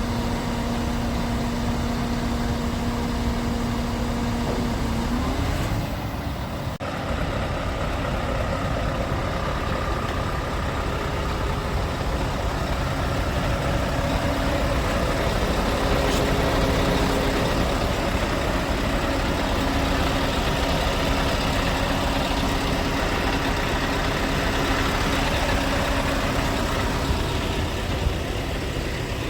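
Scania R580's V8 diesel engine running with a steady note. About five seconds in the pitch rises slightly, and after a short break it runs on steadily at a slightly higher pitch.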